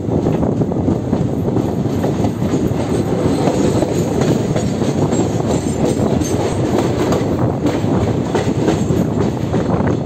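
Indian Railways train running along the track, heard from the open doorway of a coach: a loud, steady rumble of wheels on rails with clicks over the rail joints.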